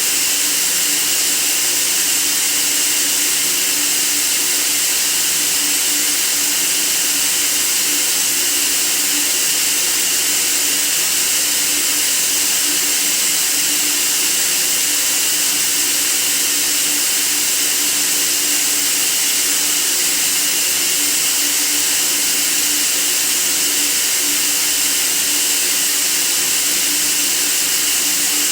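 Steady white noise: an even, unbroken hiss, bright and high-pitched, with a faint low hum underneath.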